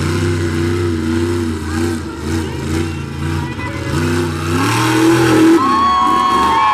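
Monster truck engine revving hard, its pitch climbing and dropping again and again as the driver works the throttle. The crowd starts cheering and whistling over it near the end.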